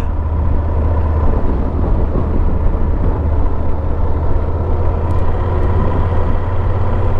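Motorcycle running at a steady cruising speed, heard from a helmet-mounted camera with a steady low rumble of wind noise.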